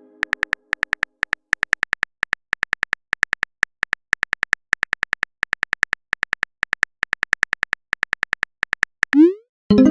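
Phone keyboard typing sound effect: quick, uneven runs of short high clicks, several a second with brief pauses. The tail of a message-notification chime fades out at the start, and a new chime rises in just before the end.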